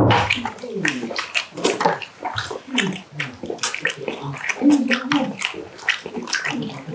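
Wet, close-up eating sounds of people chewing boiled pig's trotters (jokbal): a dense run of quick smacking and clicking mouth noises.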